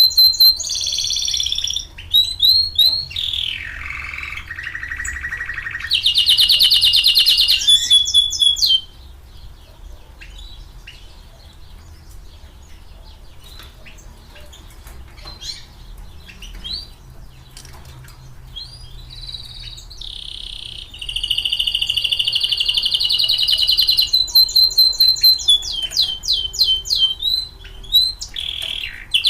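Domestic canary singing: long phrases of fast trills and sliding notes for about the first nine seconds, then a quieter stretch of scattered short chirps, and from about twenty seconds in another long run of rapid trills.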